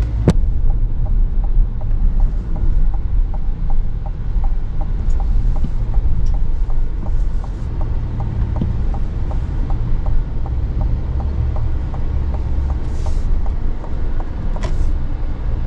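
Car cabin noise while driving: a steady low road and engine rumble, with a light regular ticking about three times a second through the first two-thirds.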